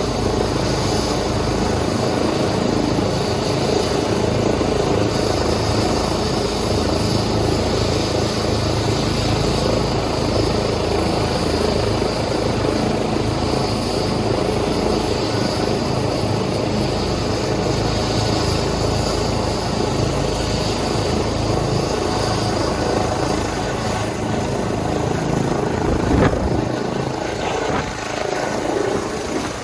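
Airbus H135 twin-turbine helicopter running at close range, its rotor and turbines giving a steady loud whir and rumble. A thin high whine rises slightly in pitch near the end, and there is one short knock about 26 seconds in.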